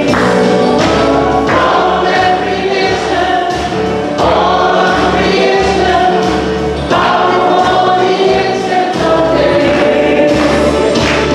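Gospel music: a choir singing sustained phrases over instrumental backing.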